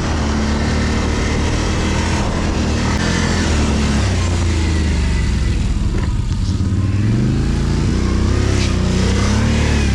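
ATV engine running steadily while riding, its pitch rising near the end as it revs up.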